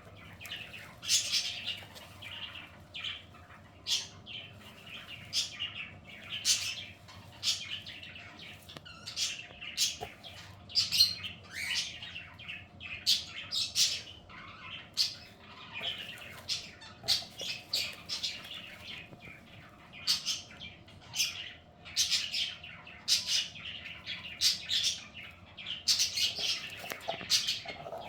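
Birds chirping and squawking in a busy, continuous chatter of short high calls, several a second, over a faint steady hum.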